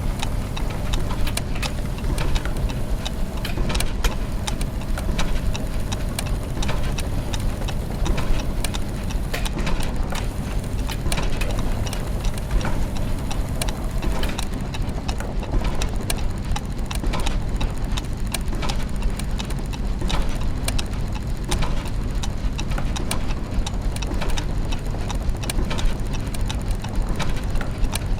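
Clockwork machinery running: a steady low rumble of turning mechanisms under continual ticking and clicking of gears and ratchets.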